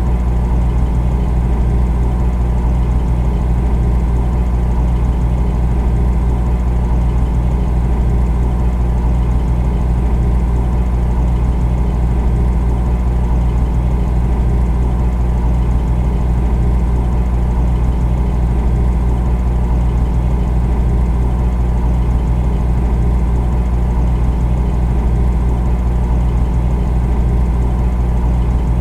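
Refrigerator running: a steady, unbroken low hum with no change in pitch or level.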